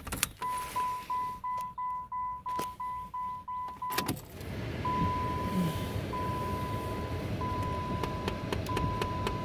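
Dashboard warning chime beeping rapidly, about three times a second. About four seconds in there is a click and the 2013 Dodge Avenger's engine cranks and starts on a cold start, then runs steadily while the chime carries on in longer beeps.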